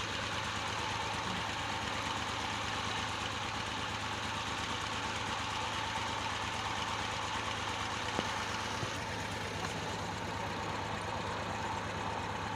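Tractor engine running steadily with a fast, even low rhythm, driving a clay brick-making machine.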